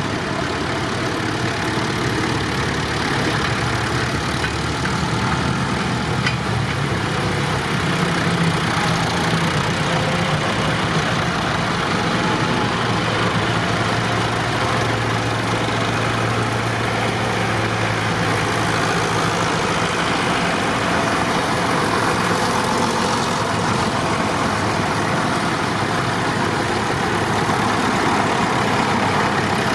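Tractor engines running steadily, a low engine hum under a continuous noisy rumble.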